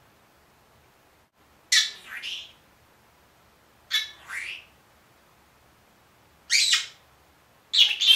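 Senegal parrot squawking: short harsh calls, four times, most of them in two quick parts, with quiet gaps between.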